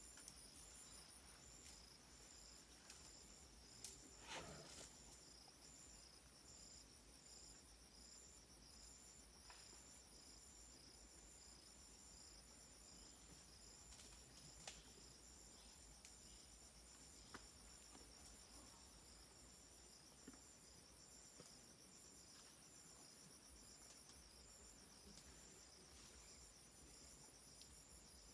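Faint insect chorus: several high, evenly pulsing trills going on steadily together in the forest. Scattered soft clicks, and a brief louder rustle about four seconds in.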